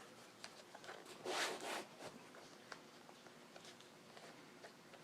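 Hand work on a motorcycle seat being upholstered: faint clicks and handling taps, with two short loud rasping noises close together about a second in.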